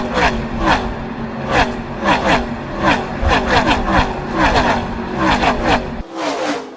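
A pack of NASCAR Gen 6 V8 stock cars racing past one after another at full speed, each engine note dropping in pitch as it goes by. About six seconds in the sound changes to a thinner-sounding run of passing cars with less low end.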